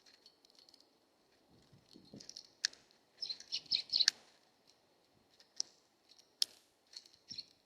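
Small birds at a feeder chirping in short bursts, busiest a few seconds in, with several sharp clicks and a faint wind noise underneath.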